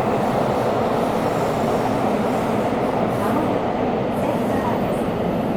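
Tokyo Metro 17000 series subway train running between stations in a tunnel, heard from inside the car: a steady rumble and roar of wheels on rail.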